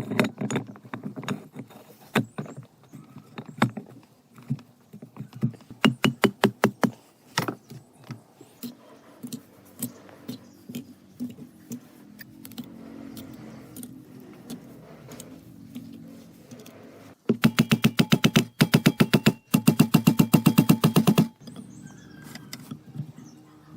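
Workshop tool sounds: irregular knocks and clicks of metal parts and tools being handled. About 17 seconds in come two bursts of a rapid, even mechanical rattle, each about two seconds long; these are the loudest part.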